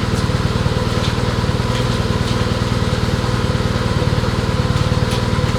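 An engine running steadily at an even speed, with a fast, regular firing pulse.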